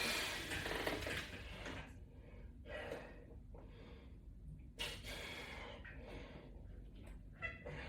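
A person breathing hard during exercise: a long heavy exhale for the first two seconds, then shorter breaths about three and five seconds in.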